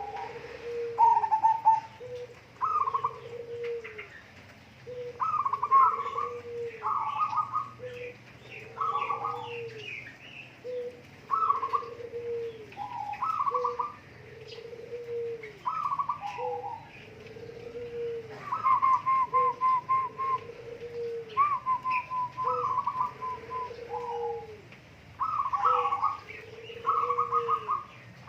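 A bird calling over and over: low arched coo-like notes every second or two, alternating with higher quavering notes, and in places a rapid rattling trill.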